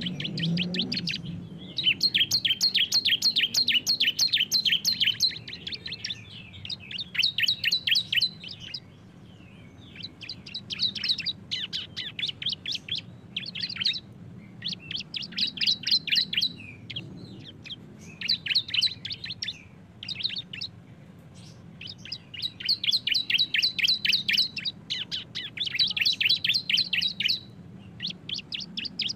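Two bar-winged prinias (ciblek) singing the rapid, chattering 'bren' trill, in bouts of one to four seconds of fast repeated high notes with short pauses between them.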